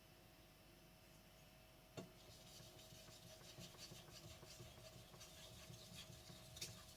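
A blue steel gyuto being sharpened on a Naniwa whetstone: after a click about two seconds in, there is faint, repeated scraping of the blade stroked across the stone, with another sharp click near the end.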